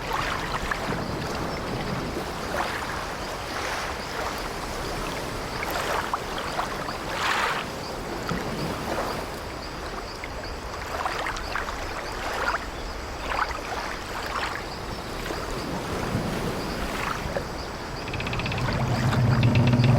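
Ambient soundscape of sea waves washing against an old wooden ship, with short creaks of the timbers every second or two. About 18 seconds in, a louder, deep, drawn-out creak sets in.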